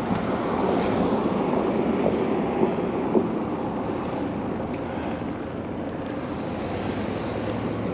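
Steady rushing wind noise on the microphone of a moving bicycle rider.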